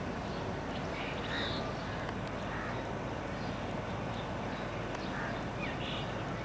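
A few short, scattered bird calls over a steady background hiss.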